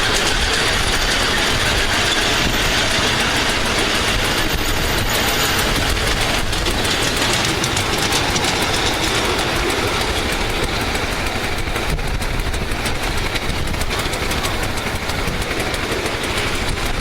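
Ride-on miniature railway train running along the track: a steady rumble of wheels on rail with a continuous fast clatter of clicks.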